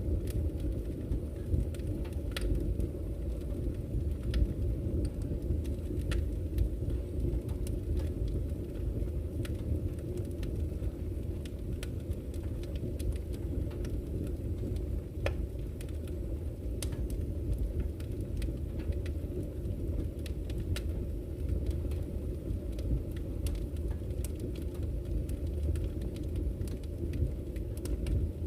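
Campfire crackling, with scattered sharp pops and snaps over a steady low rush of flowing river water.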